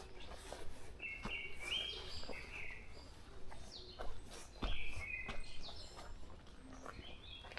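Forest birds calling, with a run of short, repeated chirping notes, some higher and some lower. A few sharp knocks or crackles come through, the loudest nearly five seconds in.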